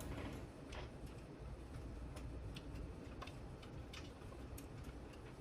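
Faint, irregular light clicks and taps of small tools and parts being handled on an RC helicopter frame while its anti-rotation bracket is taken off.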